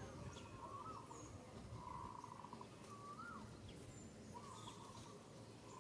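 Faint birdsong: a short buzzy trill repeated about every four seconds, with brief whistled notes that rise and fall in between.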